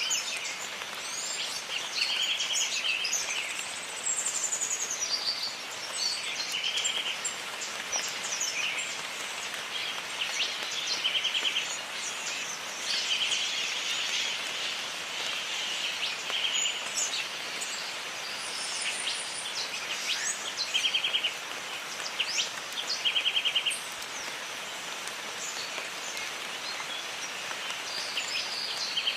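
Jungle ambience: a steady hiss of rain with many birds calling over it. A short, rapid trill repeats every couple of seconds among assorted chirps and whistles.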